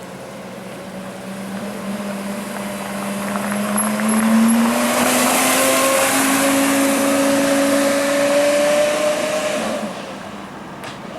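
Porsche Carrera GT's V10 with straight-piped exhaust, accelerating past. The engine note climbs steadily and is loudest about halfway through, then fades near the end.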